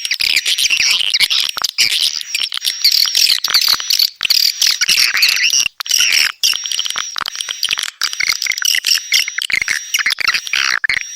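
Swiftlet calls, as played on a lure-sound track to draw swiftlets into a nesting house: a dense, continuous twittering of chirps and trills, with a thin high tone sounding on and off through it.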